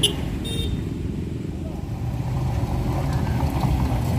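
A motor vehicle's engine running with a steady low rumble, with a couple of brief sharp clicks right at the start.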